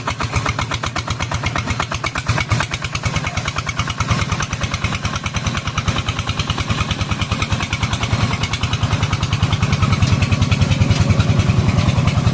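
Single-cylinder horizontal diesel engine of a công nông farm vehicle running with a rapid, even chug of firing strokes, growing louder from about nine seconds in.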